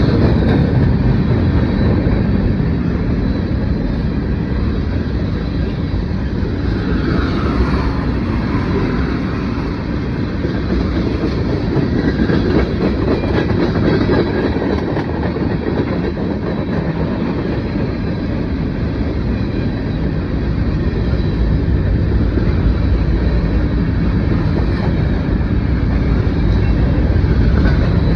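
Norfolk Southern mixed freight train rolling past, its freight cars' wheels running over the rails in a steady, loud rumble.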